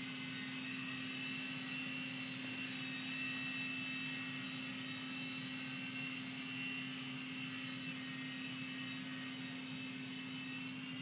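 Blade mCX2 micro coaxial RC helicopter flying, its small electric motors and rotors giving a steady hum with a high whine.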